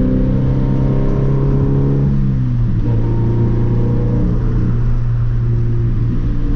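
Scion FR-S's 2.0-litre flat-four engine through a muffler- and resonator-delete exhaust, a loud steady drone while driving. About two and a half seconds in, the engine note briefly breaks and settles at a new level, as at a gear change or throttle lift.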